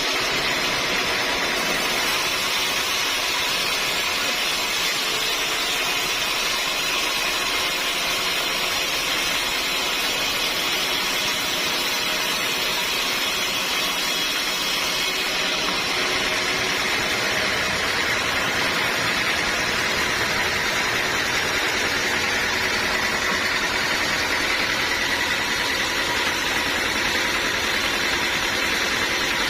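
Sawmill machinery running steadily, a motor and saw running without a break. About halfway through a deeper rumble joins in.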